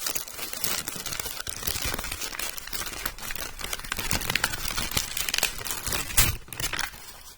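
Wax paper crinkling and rustling as a tool is unwrapped from it, with a sharp knock about six seconds in.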